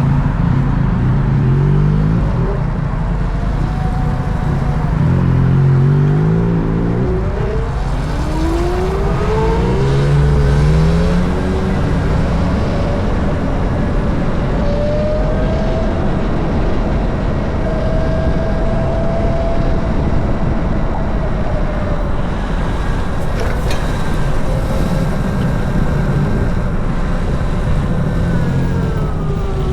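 Road traffic heard from a moving motorcycle: a steady low rumble with several engine or motor whines that rise and fall in pitch as vehicles speed up and slow down.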